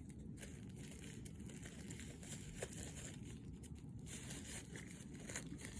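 Faint rustling and a few small clicks of packaging and small items being handled.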